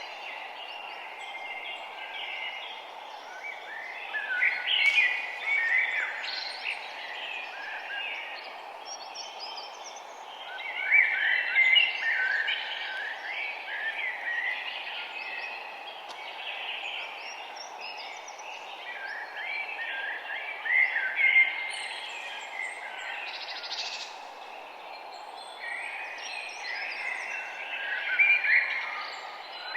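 Several songbirds chirping and trilling at once over a steady background hiss, with louder bursts of song about a third of the way in, around two thirds and near the end.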